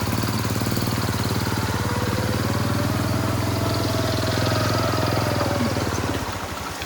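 A small engine running steadily close by, with a faint whine over it, fading away near the end.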